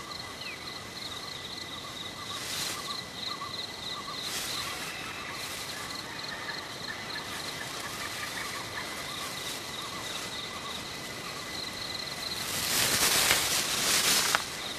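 Forest ambience of insects trilling steadily at several high pitches, with a few short swishes and a louder burst of noise lasting about two seconds near the end.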